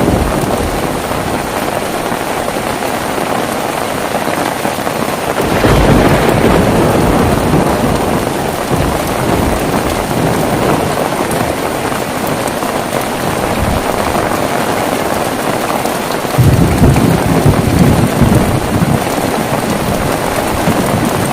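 Heavy rain falling steadily, with two rolls of thunder, about five seconds in and again about sixteen seconds in, each starting suddenly and rumbling away over several seconds.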